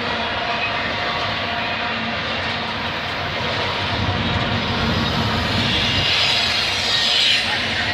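Trains on the line: a steady rumble of wheels and diesel locomotives on the rails, swelling louder in the second half as a GO Transit commuter train approaches.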